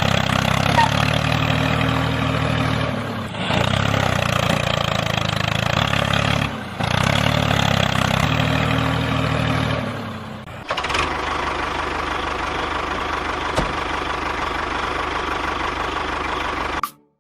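A motor running steadily, heard in several clips of about three and a half seconds each, cut abruptly one after another. About eleven seconds in, it changes to a different, higher steady whine, which cuts off just before the end.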